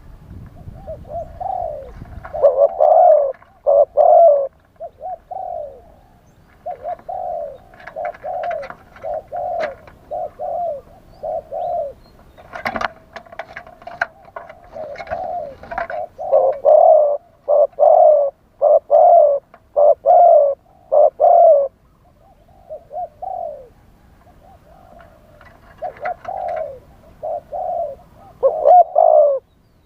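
Spotted dove cooing in repeated phrases of short, low coo notes, with brief pauses between phrases: the decoy-style call used to lure wild spotted doves.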